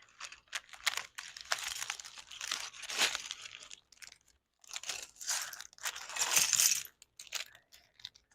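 Plastic packaging of a Lego set crinkling and rustling as it is handled and torn open, in irregular bursts.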